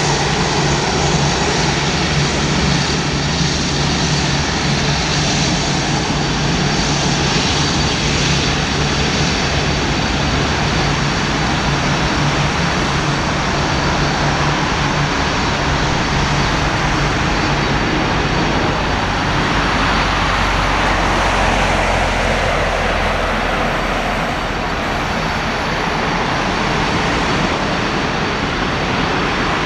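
Boeing 787-9 airliner's jet engines heard as a steady, loud broad rush with a low rumble, with a heavier low rumble about two-thirds of the way through.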